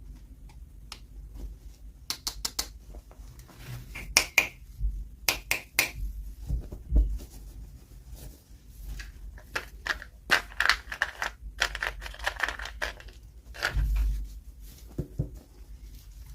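Hands unboxing a toy doll set: an irregular run of sharp clicks and taps on packaging, with a denser stretch of crinkling and rustling in the middle and a dull thump near the end.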